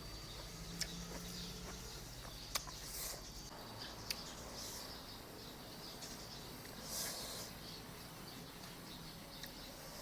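Birds chirping in the background, with three sharp clicks in the first four seconds and a couple of brief high rustling noises.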